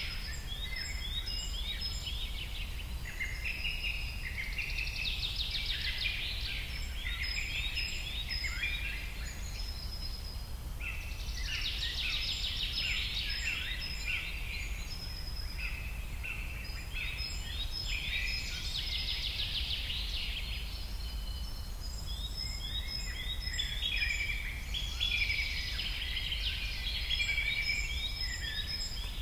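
Small birds chirping and twittering in quick, repeated short notes that slide downward, in busy clusters throughout, over a steady low hum.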